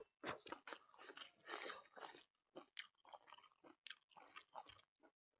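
Close-miked chewing of a mukbang meal of beef, king chilli and raw onion: a dozen or so irregular short bites and chews, with brief silent gaps between them.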